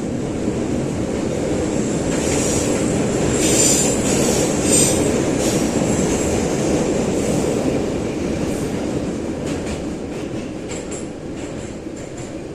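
Metro train heard from inside the car while running through the tunnel: a steady low rumble of wheels on rail, with shrill wheel squeals a few seconds in. The sound gets quieter over the last few seconds.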